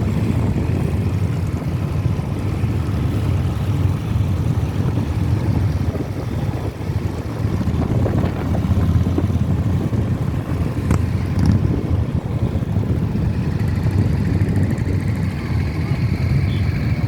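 Engines of many motorcycles running together in a large group ride, a steady, low-pitched noise.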